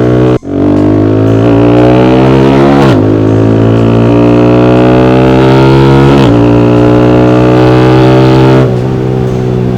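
Yamaha R15 V4 single-cylinder engine through an SC Project free-flow full-system exhaust, accelerating through the gears. The pitch climbs steadily and drops sharply twice, at about three and six seconds in, as it shifts up, then the level falls near the end. There is a brief sharp break about half a second in.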